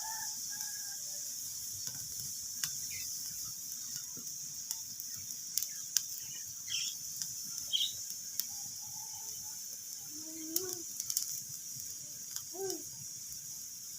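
Wood fire in a fireplace crackling: scattered sharp pops and snaps over a steady hiss. In the second half come three short calls that rise and fall in pitch, from an unidentified animal or bird.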